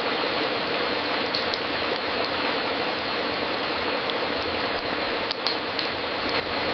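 Wood fire crackling in a fireplace: a steady hiss with scattered sharp pops, several of them close together about five to six and a half seconds in.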